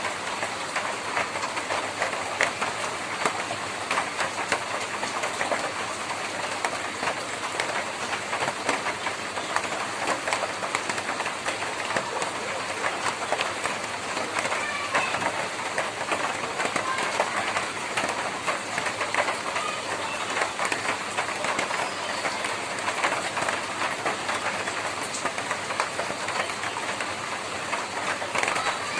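Rain falling steadily on a tin roof: a dense, even patter of countless small drop ticks on the metal sheets over a constant hiss of rain.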